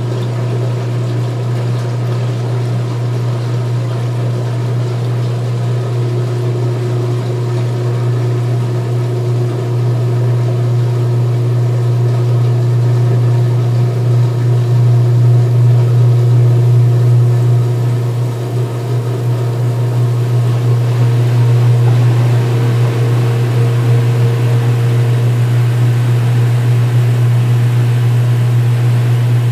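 2016 Speed Queen belt-drive top-load washer in the spin-drain after the rinse: the motor and spinning tub make a steady low hum. It grows somewhat louder over the first half, with a brief dip about two-thirds of the way in.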